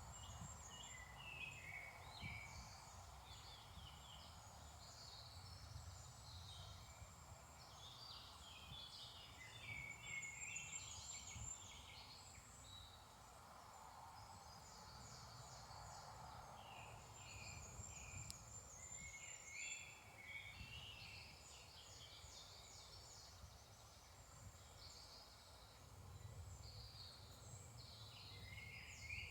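Morning chorus of several woodland songbirds: many overlapping chirps, whistles and trills, faint, over a low steady rumble.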